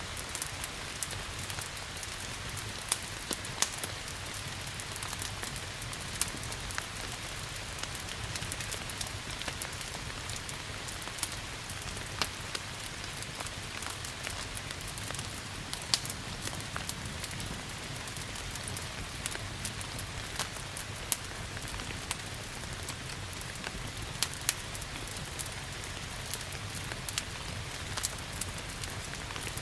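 Steady rain hiss mixed with a wood fire crackling in a fireplace, its sharp pops coming irregularly, one of the loudest about halfway through.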